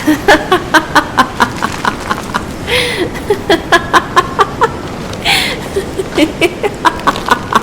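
A woman's long, cackling laugh, about four or five 'ha's a second, broken twice by sharp gasping in-breaths, over a steady hiss of sea waves.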